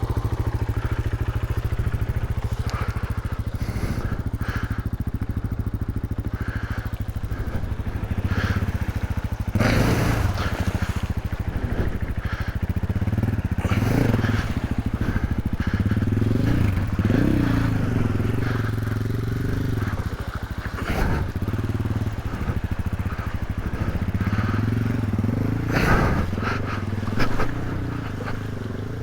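KTM 500EXC single-cylinder four-stroke dirt bike engine running at low revs while the bike wades through a deep river crossing, water splashing against it every few seconds. The water is deep enough to submerge the radiator thermofan, and the bike is close to drowning.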